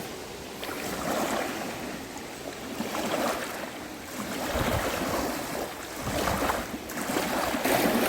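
Small waves lapping at the pond's shore in a soft rhythm about once a second, with wind gusting and rumbling on the microphone for a couple of seconds midway.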